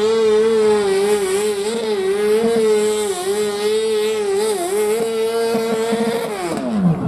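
Tractor-pulling machine's engine at full throttle during a pull, its high note held steady with slight wavers, then dropping steeply near the end as the throttle comes off.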